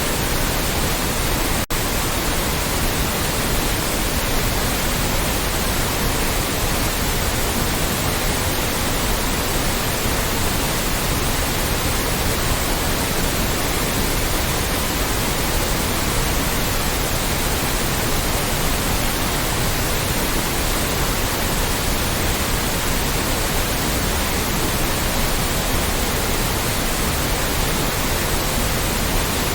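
Loud, steady, electronically generated white noise, even from the lowest to the highest pitches, with a split-second break about two seconds in.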